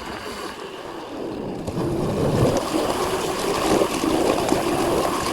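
2000 W electric bike riding along a trail: a wavering motor whine over wind and tyre rush, getting louder about a second and a half in as the bike speeds up.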